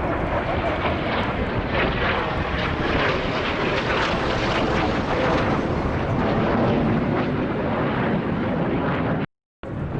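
Jet aircraft engine roar, loud and steady, from Blue Impulse Kawasaki T-4 jets flying at an air show display. The sound cuts out completely for a moment near the end.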